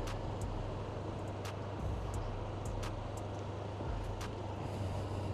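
Honda CBR500R parallel-twin motorcycle engine running with a steady low rumble, with a few light clicks on top.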